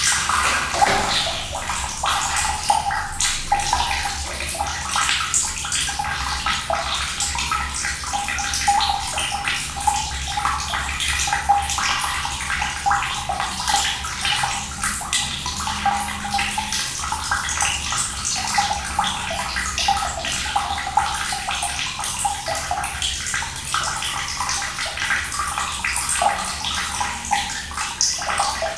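Steady stream of running water splashing continuously, like a tap pouring into a basin, with the rushing mostly in the upper range and a low rumble underneath.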